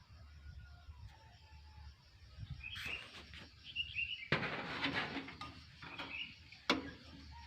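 Small birds chirping in short calls, with a burst of rustling noise about halfway through and a sharp knock near the end.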